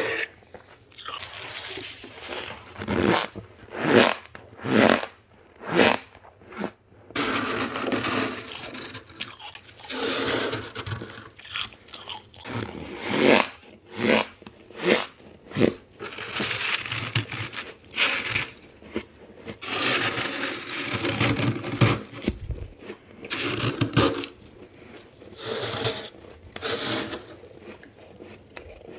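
Soft freezer frost being bitten and chewed: a series of crunching bites, some short and sharp in quick succession, others longer and grinding as the mouthful is chewed.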